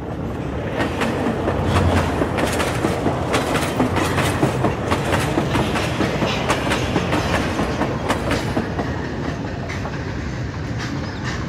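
Freight train of covered hopper wagons rolling past, its wheels clacking over the rail joints in a quick, uneven run of clicks over a steady rumble. The clicks thin out near the end.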